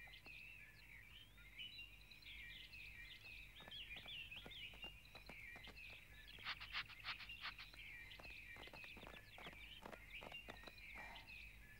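Faint birdsong: many small birds chirping and twittering continuously, with a quick run of clicking notes about six to seven seconds in.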